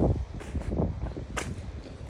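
Footsteps in sneakers through about four or five inches of fresh snow: a few sharp steps roughly half a second apart, over wind buffeting the microphone.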